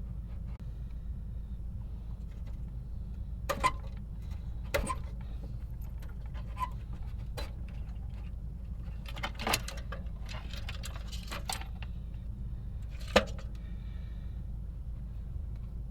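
A string of scattered clicks, knocks and clinks from small hard objects being handled, the sharpest about thirteen seconds in, over a steady low rumble.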